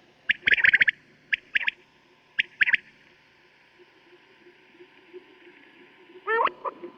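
Quail calling: short, sharp clipped calls in quick groups through the first three seconds, then a pause, and a lower call sliding downward near the end. It is a recorded quail call of the kind played to lure quail for hunting.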